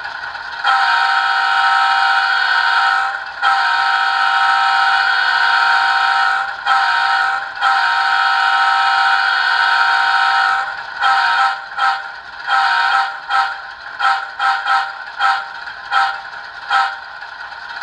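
ESU LokSound decoder in an HO-scale GE ES44AC model locomotive sounding its sampled GEVO air horn through the model's speaker: four long blasts, then a rapid string of about a dozen short toots.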